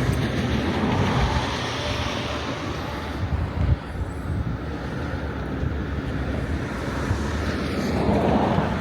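Steady outdoor rumble of wind buffeting the microphone, mixed with road traffic noise.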